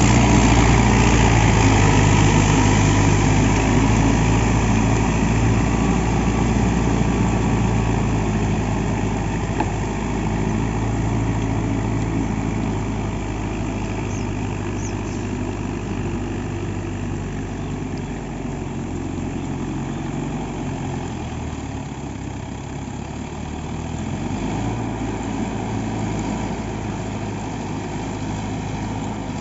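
Mahindra Yuvo Tech+ 575 DI tractor's diesel engine running steadily while working a rotavator. It is loudest at first and gradually gets quieter, with the engine note changing about two-thirds of the way through.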